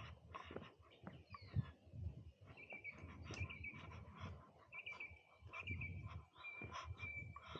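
Footsteps crunching along a forest trail, a thud about every half second, while a bird chirps short repeated high phrases several times.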